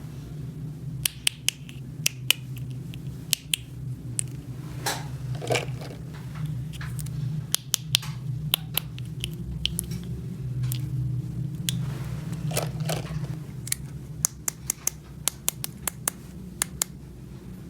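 Small plastic toy pieces being handled, with many sharp irregular clicks and taps over a steady low hum.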